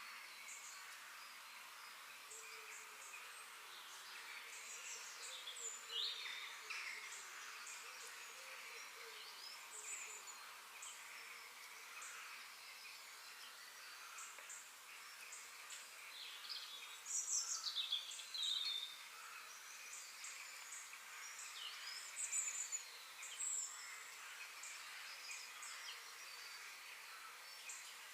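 Wild birds chirping and twittering in short, scattered calls over a steady faint hiss, with a few louder bursts of chirps about two thirds of the way through.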